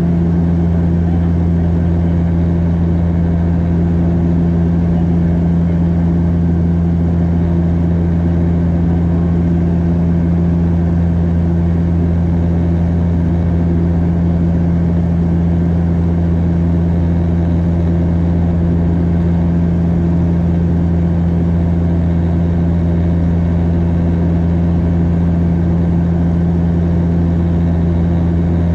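Bombardier DHC-8 Q400 turboprop propeller drone heard inside the passenger cabin in flight. It is a loud, unchanging low hum with a strong deep tone and a second steady tone above it, over even airflow noise.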